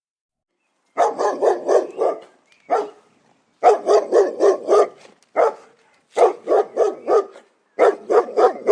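A dog barking in quick runs of short barks, about four or five a second, in several bursts starting about a second in.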